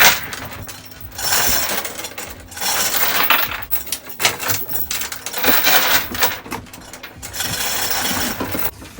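Metallic clinking and ratcheting from the lifting gear as the sailboat's diesel engine is hoisted out, coming in repeated spells of a second or two.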